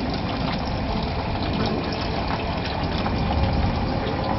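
Steady rush of water.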